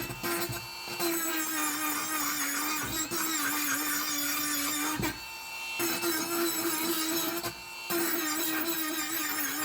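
A handheld power tool's motor runs with a steady, slightly wavering whine. It drops out briefly about half a second in, again around five seconds and once more near eight seconds, then picks back up each time.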